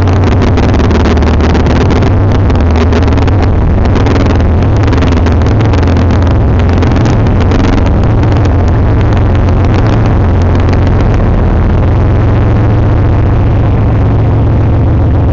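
CSX diesel freight locomotives passing close by at low speed: a loud, steady deep engine drone, with a dense clatter of wheels on the rails that thins out after about eleven seconds.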